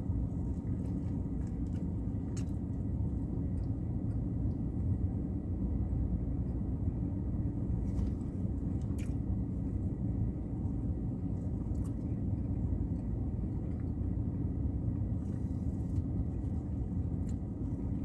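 A man chewing a bacon cheeseburger with his mouth closed, with a few faint clicks, over a steady low rumble inside a parked car.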